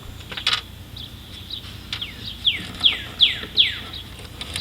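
A bird calling a quick series of about five falling whistled notes, with a single sharp click of a tool or part about half a second in.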